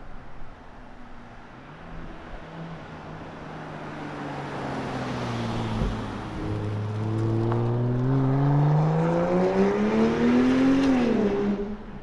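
BMW X5 45e's turbocharged inline-six accelerating hard through a valved catback exhaust with the particulate filter deleted. The engine note starts quiet, then climbs steadily in pitch and loudness from about halfway, peaks, and drops sharply near the end as the revs fall away.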